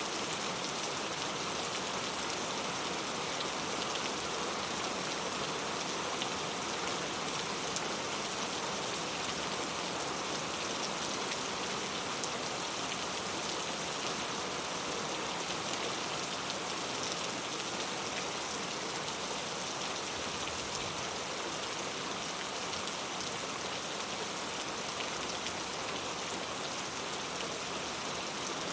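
Steady rain ambience: a constant, even hiss of rainfall with a dense patter of fine drops.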